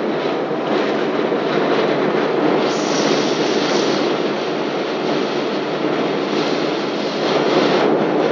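Steady cabin noise of a Boeing 777 in flight or on its take-off run, with the engines and rushing air heard from a window seat. It swells a little about three seconds in and again near the end.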